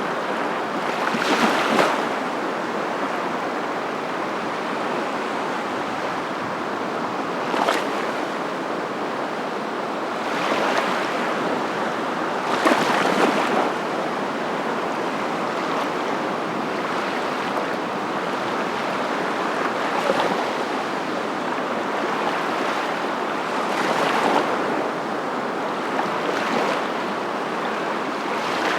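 A steady rushing noise that swells louder briefly about six times, at uneven intervals of a few seconds.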